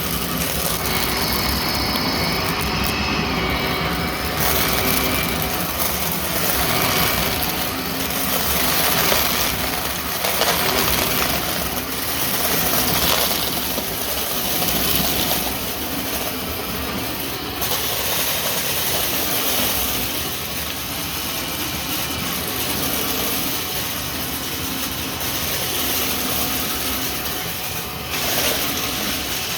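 Vacuum cleaner running steadily with its brushroll spinning, swelling and easing a little in level as it is pushed back and forth.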